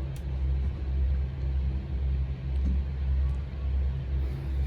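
Strong Meltemi wind buffeting the microphone: a low rumble that swells and dips in gusts.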